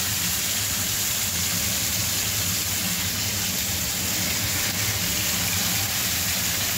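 Marinated chicken pieces sizzling steadily in hot oil on a nonstick tawa as they are laid in to shallow-fry, with a low steady hum beneath.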